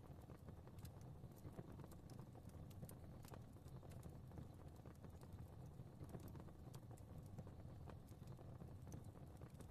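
Fire crackling softly: irregular small pops and snaps over a low, steady rumble of flames.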